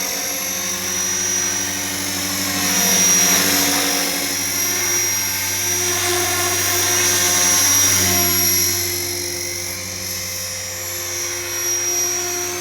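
Align T-Rex 470LP electric RC helicopter in flight: a steady whine from its motor and a hum from its rotor, which swell and fade gently as the helicopter moves about.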